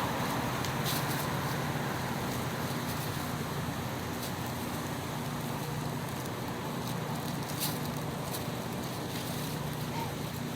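Steady background hiss with a faint low hum and a couple of faint clicks.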